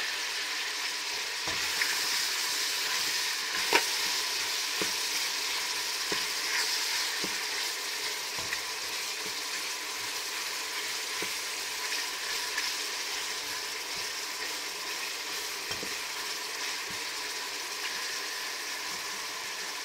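Chopped onion and cuttlefish sizzling in olive oil in a stainless steel pot while being stirred with a wooden spoon: a steady frying hiss with scattered knocks of the spoon against the pot, the sharpest about four seconds in. The sizzle eases slightly toward the end.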